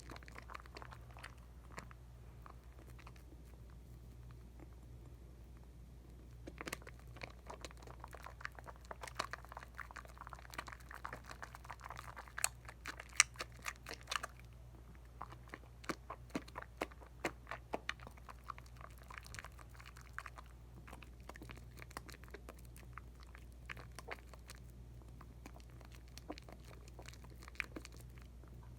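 Hands lathering a bar of Dial coconut soap: wet crackling and squishing of the suds. The crackling is sparse at first, thick from about a quarter of the way in until past the middle, then thins out again. A faint steady low hum runs underneath.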